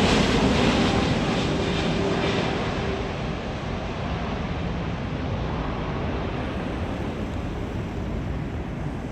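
Jet airliner's engine noise fading away as it passes, with a faint whine that dies out about three seconds in, leaving a steady rumbling noise.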